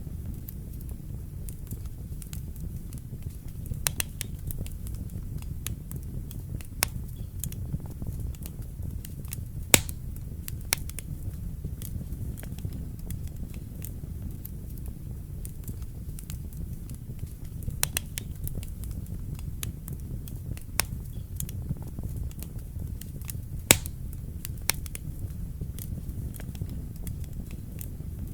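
Wood fire burning in a fireplace: a steady low rumble of flame with scattered sharp crackles and pops, two of them louder than the rest.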